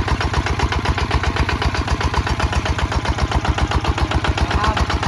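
Kubota ZT155 DI single-cylinder diesel engine of a tractor running steadily, a rapid, even beat of firing pulses.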